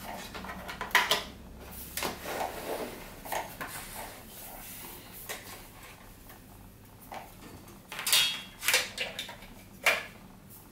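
Hands handling a cordless vacuum's plastic charging dock and power cable: scattered clicks and knocks, the loudest cluster about eight seconds in.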